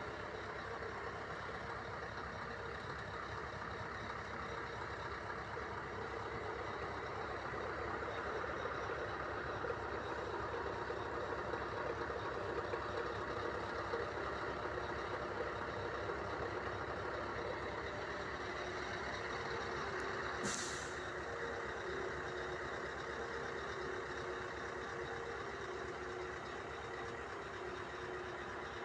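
Scania R500 truck's V8 diesel engine running steadily, with one short, sharp hiss of released air about two-thirds of the way through.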